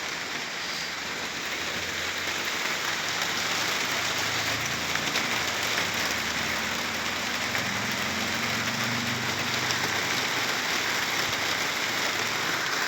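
Steady rain falling. A low engine hum, such as a vehicle's, joins a few seconds in and fades out near the end.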